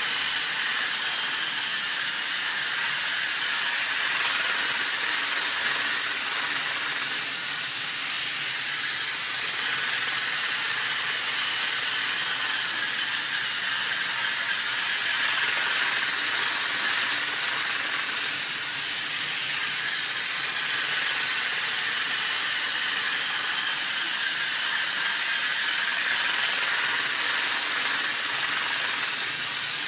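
Battery-powered toy Henry the Blue Engine running laps on plastic track: a steady whirring hiss of its small motor, gears and wheels.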